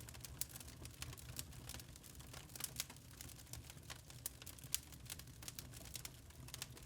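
Wood fire crackling in a fireplace: frequent irregular sharp pops and snaps, several a second, over a low steady rumble of the burning fire.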